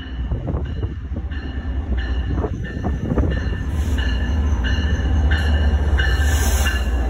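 Commuter rail train running past on the tracks: a heavy low rumble with a high wheel squeal that comes and goes about twice a second, growing louder toward the end.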